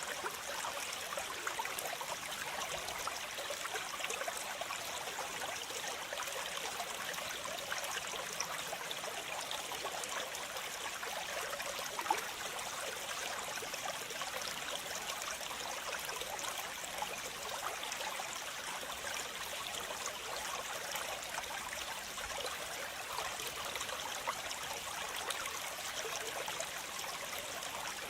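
Waterfall and stream water rushing and splashing steadily, with many small splashes and trickles.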